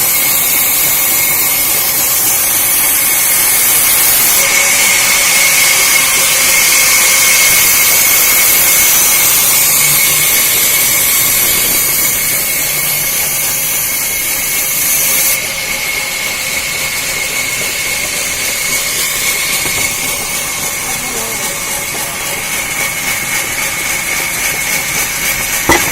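Sawmill saw running: a steady high whine over a loud hiss. It drops a little in level about fifteen seconds in.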